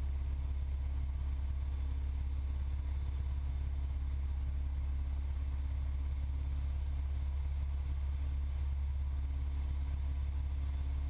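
Steady low drone of a Cessna 172's piston engine and propeller in flight, heard from inside the cockpit, unchanging throughout.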